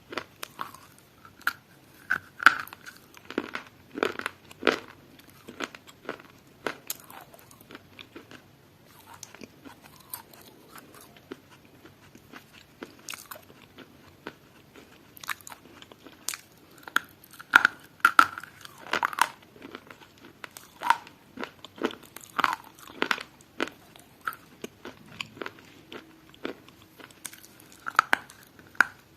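Crunchy food being bitten and chewed close to the microphone: sharp, irregular crunches that come in clusters with quieter stretches in between.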